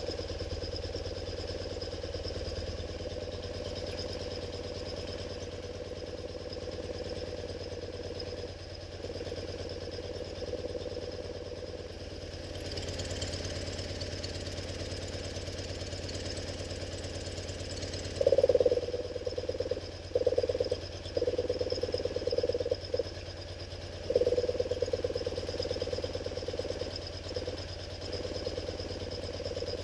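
1974 BMW R90S air-cooled flat-twin engine running steadily at idle, with a few louder, uneven surges about two-thirds of the way through. It runs with its crankcase breather valve refitted with the flapper the right way up, and no longer gobbles.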